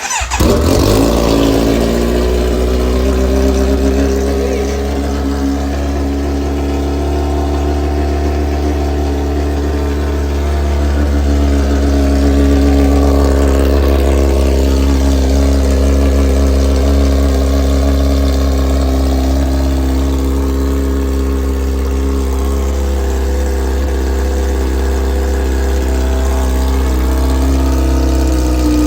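2023 Kawasaki Z900's inline-four engine catching at once on a cold start and settling into a steady idle. It runs through an Akrapovič full exhaust system with the muffler left off, a straight pipe.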